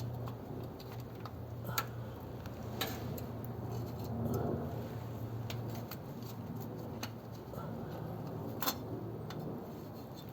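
Scattered metallic clicks, taps and scrapes of a wrench and hands working at a stuck spin-on oil filter to loosen it, over a steady low hum.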